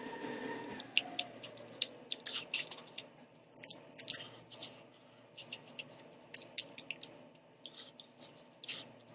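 Close-miked chewing of spicy instant ramen noodles, with many short wet mouth clicks and smacks at irregular intervals, loudest in the first half.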